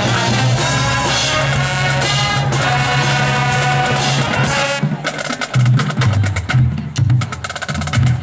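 Marching band playing: the full band holds loud brass chords over the drums, then the winds cut off about five seconds in and the drumline carries on alone with a fast, choppy percussion passage.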